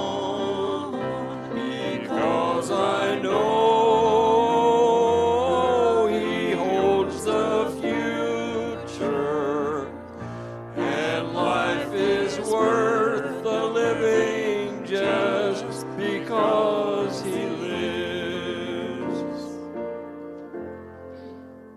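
Church music: singing with vibrato over instrumental accompaniment, fading out near the end.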